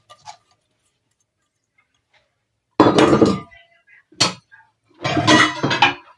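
Clatter of metal cooking pots and utensils: a loud ringing clank about three seconds in, a sharp clink a second later, and another stretch of clanking near the end.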